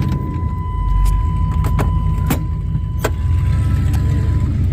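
A vehicle engine running steadily with a low rumble, heard from close by or inside the cab. A steady high tone sounds over it and stops near the end, and there are a few sharp clicks or knocks about two and three seconds in.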